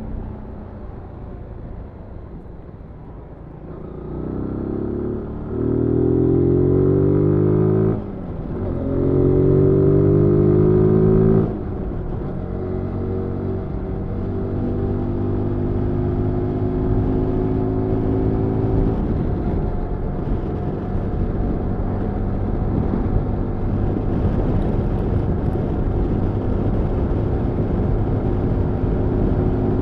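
Zontes G1 125 Scrambler's single-cylinder 125 cc engine pulling through the gears: its pitch climbs, drops suddenly at a gear change, climbs again and drops, then it settles into a steady cruise. Wind and road noise run underneath.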